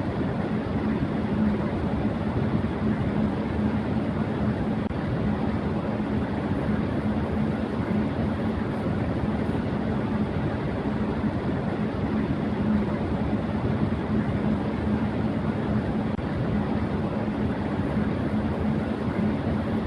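Electric fan running steadily at high speed: an even whooshing rush of air with a constant low hum from the motor.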